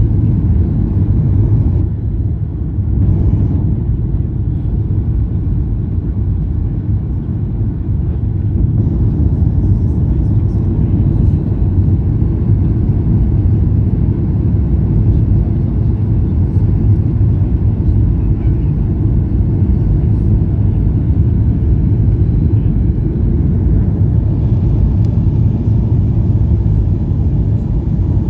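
Steady low rumble of an airliner heard from inside the passenger cabin: engine and airflow noise of a plane on its landing.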